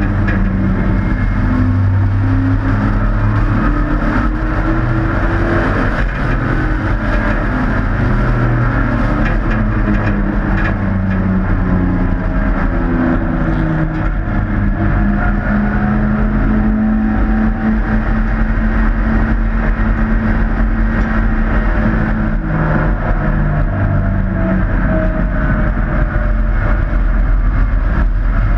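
Several race trucks' engines running hard in a heat race, their notes overlapping and rising and falling as they circle the track, with no break.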